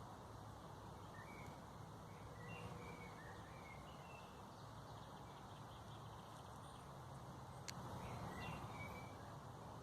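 Faint bird chirps, short high notes scattered through, over a steady low background hum. A single sharp click sounds about three-quarters of the way through.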